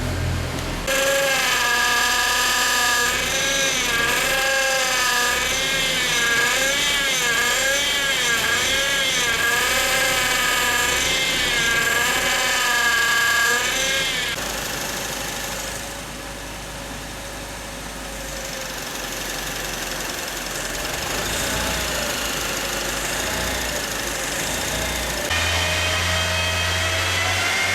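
Power steering pump on a Honda Odyssey RB1 whining with the engine running, its pitch wavering up and down over and over for about the first half, then dropping back to quieter running before a rising whine returns near the end. The uploader takes the noise for a failing power steering pump, a known fault on these Hondas.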